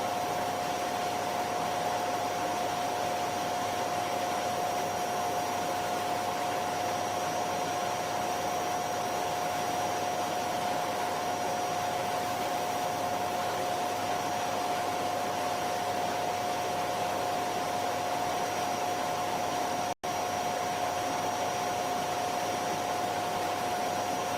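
Vacuum cleaner motor running steadily: an even rushing hum with a constant whine, broken by one momentary dropout about twenty seconds in.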